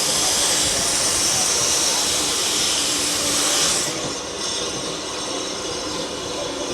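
Steam locomotive letting off a loud steady hiss of steam, which cuts off suddenly about four seconds in.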